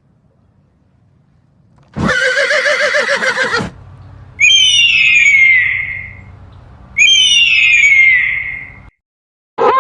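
Animal calls: one loud call with a quickly quavering pitch, then two long, high, whistled calls that slide downward in pitch.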